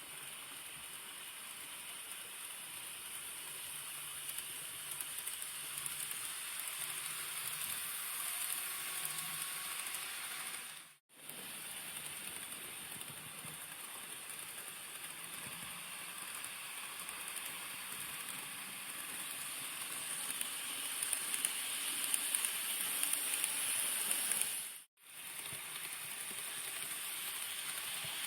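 N-gauge model train running on the layout track: a steady hissing rattle of small wheels on rails with a faint motor hum. It cuts out abruptly twice, about 11 and 25 seconds in.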